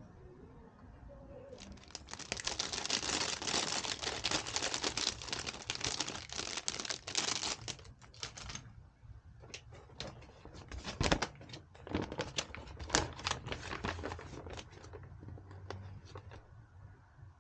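Rapid, dense clicking and rattling for several seconds, then scattered sharper clicks and taps, as small hardware is handled.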